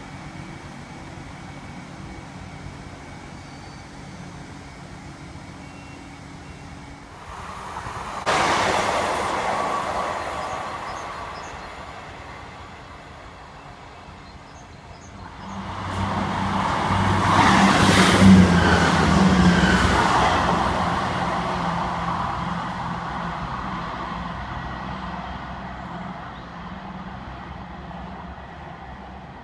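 Diesel multiple-unit trains passing: a sudden rush of noise about a third of the way in that fades away, then a louder pass with a low engine drone that swells, peaks just past the middle and slowly dies away.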